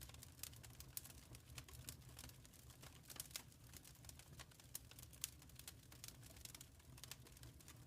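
Wood fire crackling in a fireplace, faint: irregular quick pops and snaps over a low steady rumble.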